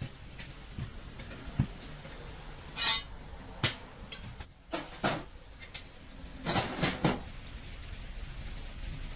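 Irregular metal clanks and knocks of tools at work on a truck tire, over a low steady hum. There is a rattling burst about three seconds in and a cluster of strikes near seven seconds.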